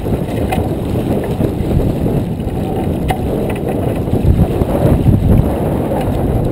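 Wind buffeting the microphone aboard a J24 sailboat under way: a loud, uneven low rumble, with a few faint clicks.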